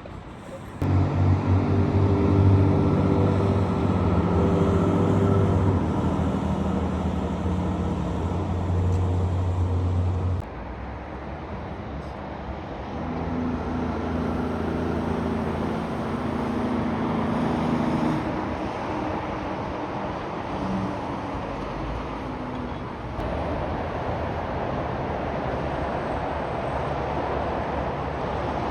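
Heavy trucks' diesel engines driving past with traffic and road noise. The first engine comes in suddenly about a second in and cuts off abruptly about ten seconds in, and a second truck's engine is heard a few seconds later before steady road noise takes over.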